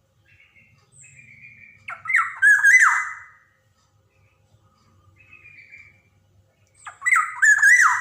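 Black-naped oriole (Javan kepodang) calling: two loud phrases about five seconds apart, each mixing wavering whistled notes with a harsh, squawking rasp, with softer calls between them.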